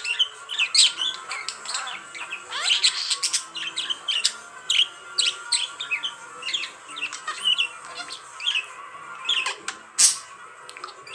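Budgerigar warbling and chattering: a steady run of quick chirps, squeaks and short squawks. A sharp click about ten seconds in.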